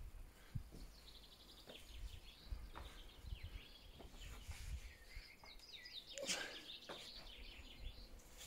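A mix of several wild songbirds chirping and twittering at once, with a louder call about six seconds in, over a low rumble.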